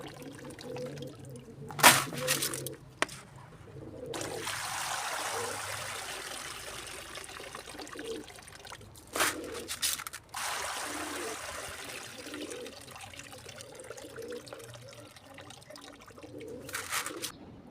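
Water pouring and splashing in several spells, the longest lasting about four seconds.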